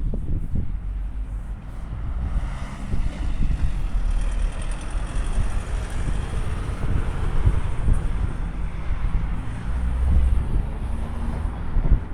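A train passing by. Its rushing noise swells from about two seconds in and eases near the end, over a low rumble with wind on the microphone.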